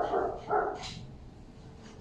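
A dog barking twice, once at the start and again about half a second later, followed by a brief sharp click.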